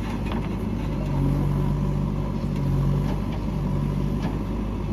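Heavy diesel engine running, its drone swelling under load for about two seconds before settling back, with a few light clanks.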